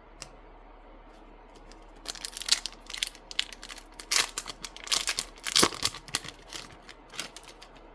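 Foil booster-pack wrapper crinkling and tearing as a pack is opened: a dense run of irregular crackles starting about two seconds in.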